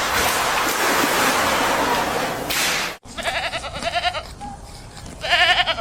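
A loud, even rushing noise for about three seconds, cut off suddenly, then an animal bleating: two quavering calls, the second near the end.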